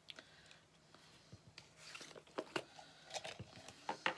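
Scattered light clicks, taps and rustles of craft supplies being handled, a few sharper ones near the end.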